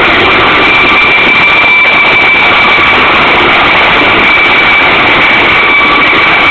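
Helicopter running close by: its turbine engine and rotor make a loud, steady rushing noise with a steady high whine over it.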